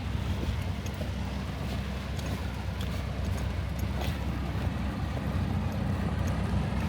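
Semi-truck's diesel engine running, heard from inside the cab as a steady low rumble.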